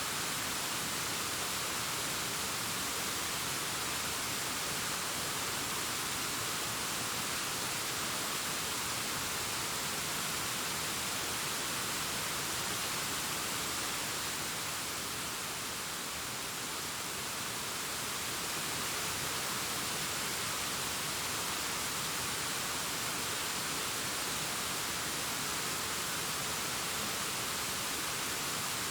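Distant waterfall cascading down a rock face: a steady rushing hiss that eases slightly about halfway through.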